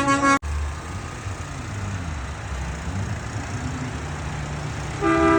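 Heavy truck engines rumbling past amid road noise, after music cuts off abruptly about half a second in. Near the end a truck air horn sounds a loud, steady multi-tone chord.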